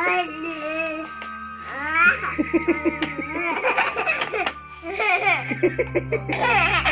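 A baby of about nine months laughing and squealing in short, high, up-and-down bursts, over background music.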